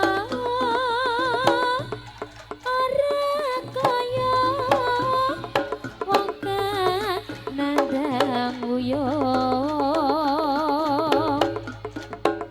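Live campursari band music: a wavering melody line with heavy vibrato on held notes, over frequent sharp drum strokes and a steady low bass hum.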